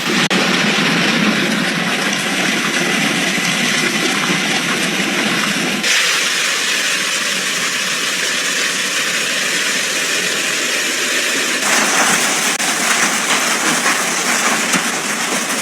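Heavy storm downpour beating on surfaces: a loud, dense, steady hiss that changes abruptly about six and twelve seconds in, the last stretch with many fine taps of pelting drops or hailstones.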